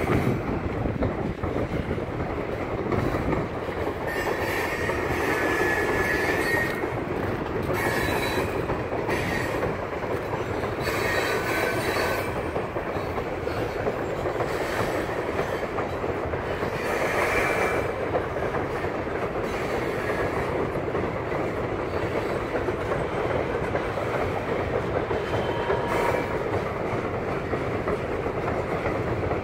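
Covered hopper cars of a freight sand train rolling over a wooden trestle bridge: a steady rumble and clatter of steel wheels on the rails, with brief high wheel squeals a few times.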